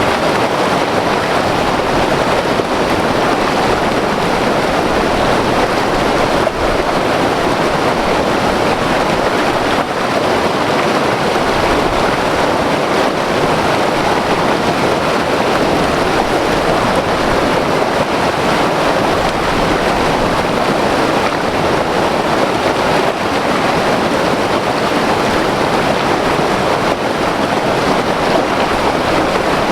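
White water river rushing over rocks, a loud, steady roar of turbulent water.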